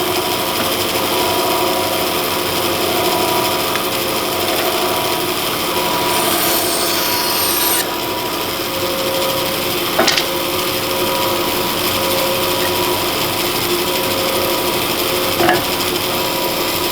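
Bandsaw running at full speed with a steady hum while ripping a workpiece against the side fence. There is a burst of high hiss from the cut about six seconds in, and two short knocks, one midway and one near the end.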